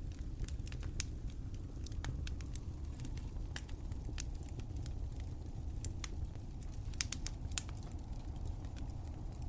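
Wood fire crackling: irregular sharp pops and snaps over a steady low rumble, with a few louder pops about seven seconds in.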